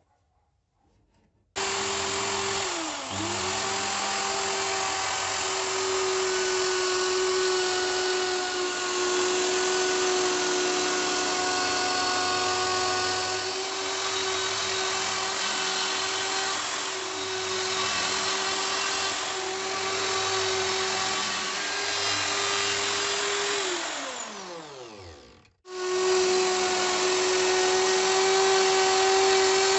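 An electric router starts about a second and a half in and runs at high speed with a steady whine, its pitch sagging briefly a few times. Near the end it winds down with a falling pitch to a stop, then is running again.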